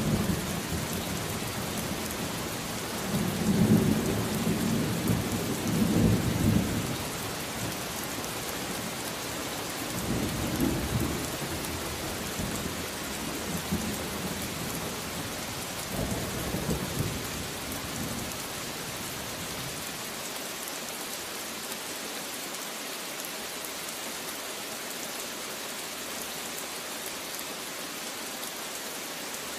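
Steady rain falling with rolling thunder: the strongest low rumble comes a few seconds in, weaker ones follow twice more, and near the end only the rain remains.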